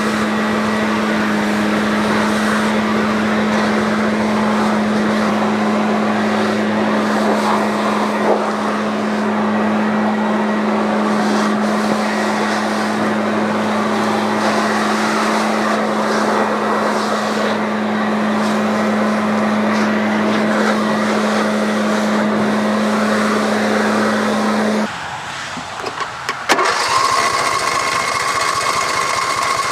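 Riding lawn tractor's small engine running steadily with a constant low hum. About 25 seconds in that note stops and the sound drops briefly. A second later a different running sound starts, carrying a steady higher whine.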